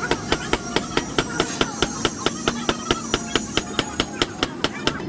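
Rapid, evenly spaced hammer strikes on metal, about five a second, each with a short ring, during work on a motorcycle's rear shock absorber.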